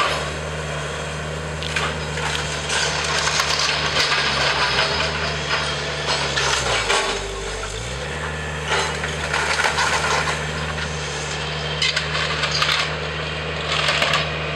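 Wooden house framing cracking and splintering as it is crushed and torn apart by a demolition machine, with the machine's engine running steadily underneath. The engine's pitch dips briefly about seven seconds in, then comes back up.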